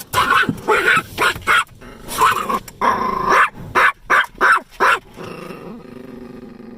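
A dog barking loudly about ten times in quick, uneven bursts, one bark drawn out a little longer about three seconds in. After about five seconds the barking stops and a quieter, steady sound carries on.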